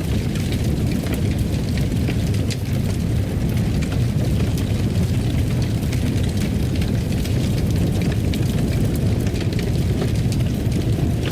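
Fireplace fire burning with a steady low rumble and scattered small crackles and pops.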